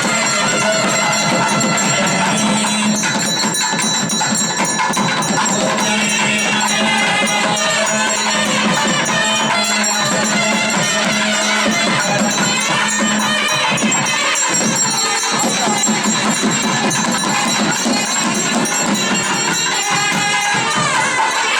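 South Indian temple procession music: a reed-pipe melody bending and wavering over a steady drone, with jingling percussion throughout.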